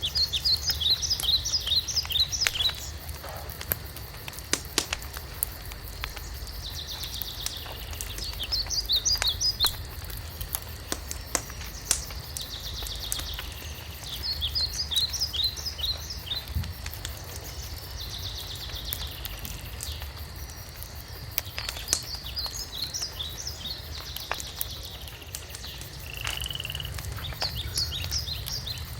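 A songbird singing short phrases of quick high notes, repeated every several seconds, over a crackling wood fire with scattered sharp pops.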